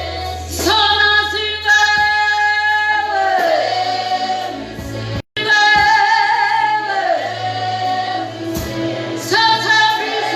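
Gospel singing in a church service: women's and choir voices holding long notes with vibrato over steady low bass notes. The sound cuts out completely for a split second about halfway through.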